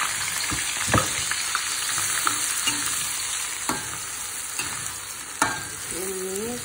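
Sliced shallots, garlic, ginger, lemongrass and bay and lime leaves sizzling in hot oil in a wok, the sizzle easing off a little. A spatula stirring them knocks sharply against the pan three times.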